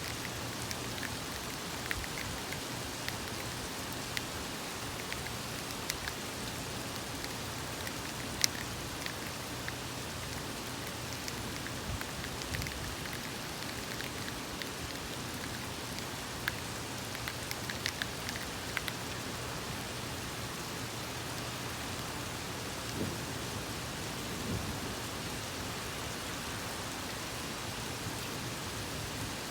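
Steady rain falling in a thunderstorm, with scattered sharp drop ticks and one louder tick about a third of the way in. Twice, about three-quarters of the way through, there is a brief low rumble.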